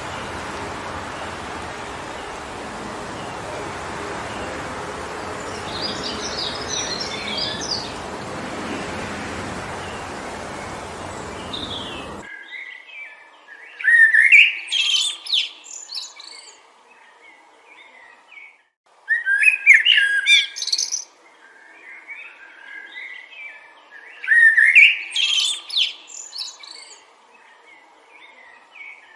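Wind rushing steadily through forest trees, with a few faint bird chirps. About twelve seconds in the wind cuts off abruptly and a songbird sings loud, quick phrases of chirps and whistles, three bursts a few seconds apart with quiet in between.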